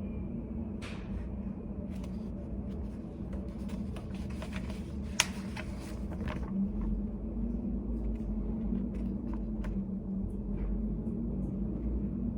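Study cafe room tone: a steady low hum and rumble, with scattered light clicks and taps. The sharpest click comes about five seconds in, and the rumble grows louder just past halfway.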